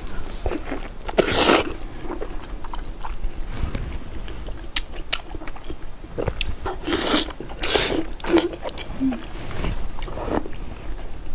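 A person chewing and biting food close to the microphone, with small clicks throughout and several louder bites about a second and a half in, around seven and eight seconds in, and near ten seconds.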